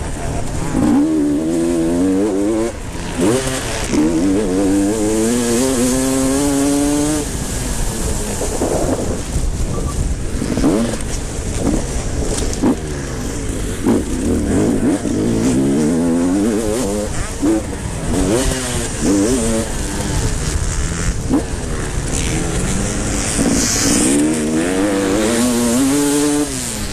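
Motocross motorcycles racing, engines repeatedly revving up in rising sweeps and dropping back as they shift and slow, with several bikes overlapping.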